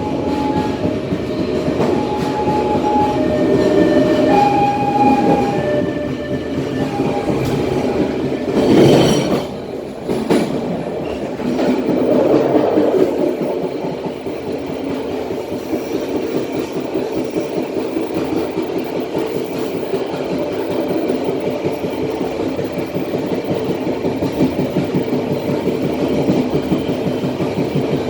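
Matarmaja passenger train running on the line, heard from the rear of the last carriage: a continuous rumble of carriage wheels on the rails. Short high squeals come in the first few seconds, and a brief loud rush about nine seconds in.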